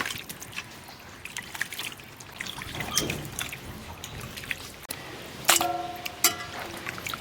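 Water trickling and splashing, with small scattered clicks. Two sharp knocks come near the end, each ringing briefly.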